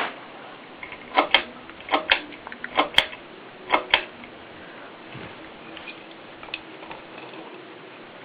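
Ceiling fan running with a faint steady hum, with about four pairs of sharp clicks in the first half.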